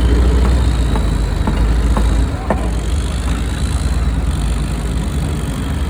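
Speed boat running on the water: a loud, steady low engine rumble under rushing wind and water noise, with a few short knocks. The rumble drops a little a little over two seconds in.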